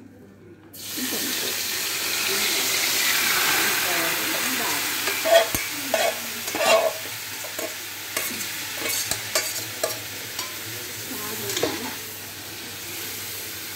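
Fried chicken pieces tipped into hot oil in a wok, sizzling suddenly about a second in and slowly dying down. A metal spoon scrapes and clicks against the pot and wok as the chicken is stirred.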